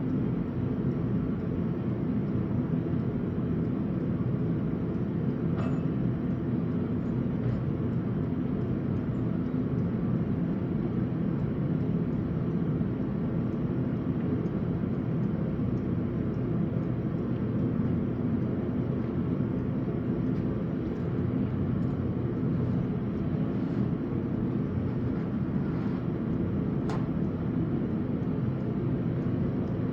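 A blacksmith's forge running: a steady low roar with a faint hum and no hammering, with a faint tick near the end.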